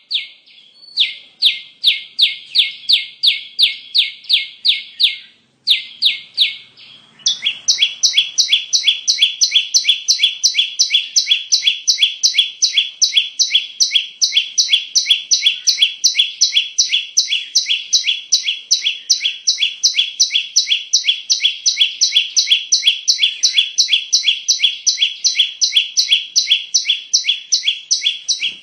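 Bar-winged prinia (ciblek) call played as a bird-lure recording: a fast string of short chirping notes repeated at an even rate without pause. About seven seconds in, the chirping becomes denser and reaches higher.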